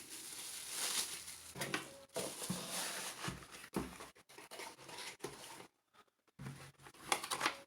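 Rustling of plastic packaging and handling of a tumbler and its parts, with a few light clicks and knocks. It pauses briefly about six seconds in, then resumes near the end.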